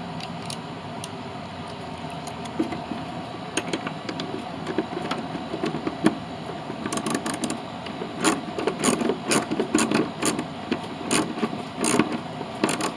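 Socket wrench ratchet clicking in short runs as a 10 mm lock nut is run down onto a carriage bolt, with sparse clicks at first and quicker, busier runs from about halfway in.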